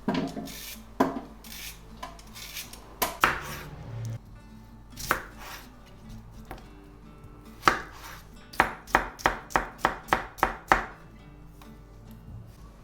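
Knife chopping food on a cutting board. A few unhurried cuts come first, then near the end a quick, even run of about ten chops at roughly four a second.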